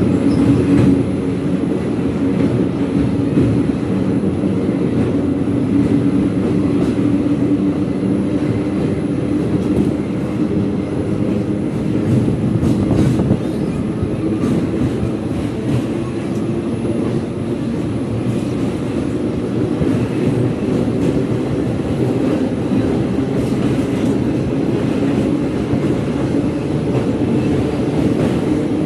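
Train running steadily along the track: a continuous low rumble, with a few faint clicks near the middle.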